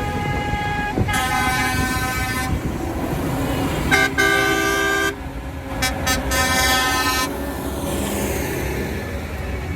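Tractor horns tooting in three long blasts of differing pitch, over the steady low rumble of running engines.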